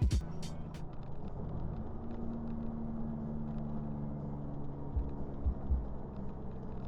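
Semi truck under way: a steady diesel engine drone and road rumble, with a few low thumps about five seconds in.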